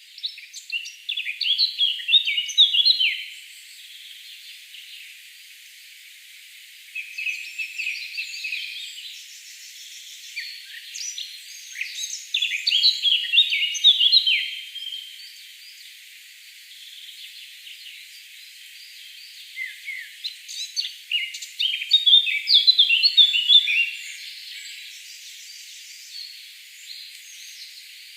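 Birds chirping and twittering in quick, high notes, coming in three bouts with quieter stretches between.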